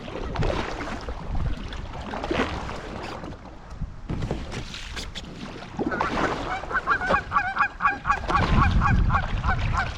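Geese honking: a rapid run of repeated calls, about three a second, starting about six seconds in, over rushing noise.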